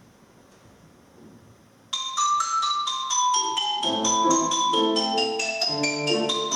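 Near silence, then about two seconds in an instrumental piece begins: a quick run of struck, ringing notes stepping down from high, with lower notes joining beneath.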